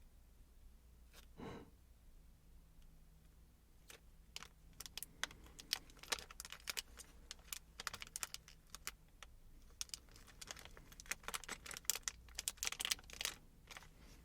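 Crinkly plastic wrapping crackling in the hands as a set of paint brushes is unwrapped. The crackles are sparse at first and turn into dense, rapid crinkling in the second half.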